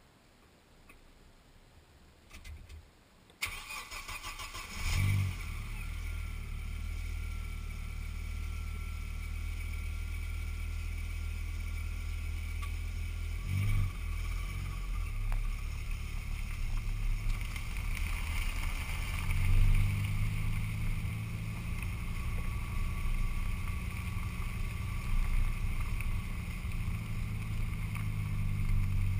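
A car's engine cranks and catches about five seconds in, after a few quiet seconds and a steady hiss coming on just before. It then idles steadily, and from about two-thirds of the way through it runs louder and at a changed pitch as the car pulls away and rolls slowly.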